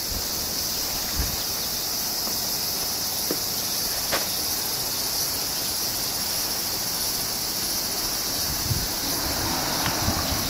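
Steady, high-pitched insect chorus, unbroken throughout, with a couple of faint clicks.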